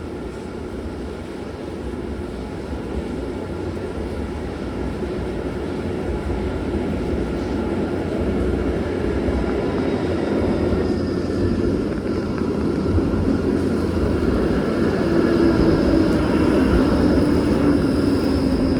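A passing train or tram approaching, its running noise growing steadily louder, with a steady whine over the rumble in the second half.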